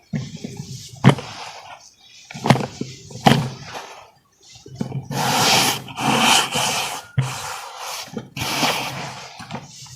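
Hardened dry crumbly chunks being snapped and crushed, with several sharp cracks and longer gritty crumbling stretches about five and eight seconds in.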